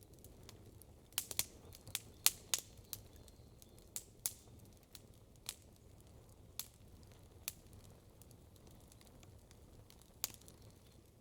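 Wood campfire crackling: sharp, irregular pops, a quick cluster of loud ones about one to three seconds in, then sparser pops with a single loud one near the end, over a faint low steady background noise.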